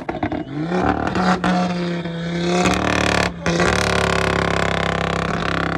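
A performance car's engine revving hard: the pitch climbs early on, then holds at high revs over a steady hiss, with two brief drops in the sound.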